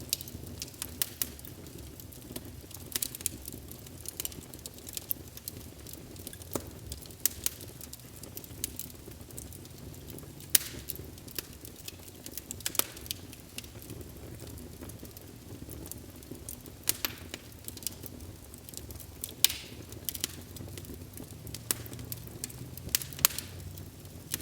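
Wood fire in a fireplace crackling: irregular sharp pops and snaps, a few louder than the rest, over a steady low bed of flame noise.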